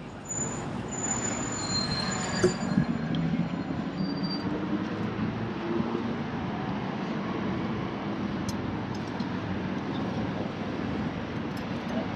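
City street traffic noise, a vehicle running close by, starting up suddenly just after the start and then holding steady, with thin high-pitched squeals over the first few seconds.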